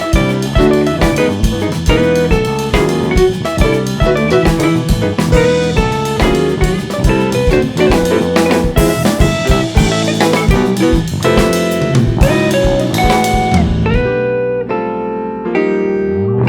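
Live jazz-fusion band playing: drum kit, electric guitar and bass in a busy passage. About fourteen seconds in the drums drop out, leaving a few held notes and a sliding bass note.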